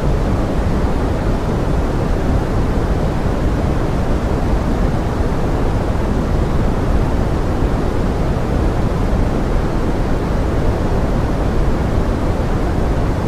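Pink noise blended with forest rain: a steady, deep hiss with no single drops or other events standing out.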